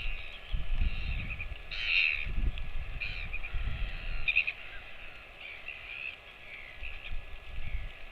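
Short, harsh bird calls: a loud cluster about two seconds in, then shorter ones near three and four and a half seconds. Under them are a steady hiss of rain and repeated low rumbles of wind on the microphone.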